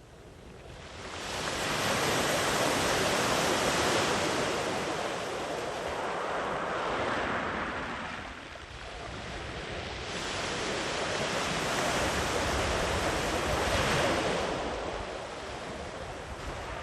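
Sea waves breaking and washing in, a steady surging rush. It swells up about a second in, eases briefly just past the middle, then builds to a second surge near the end.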